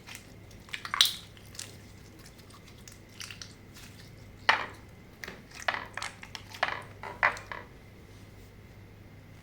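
Slime being squeezed and pressed by hand, making sticky crackling pops and clicks. There is a short cluster about a second in, then a longer run of pops from about the middle until near the end.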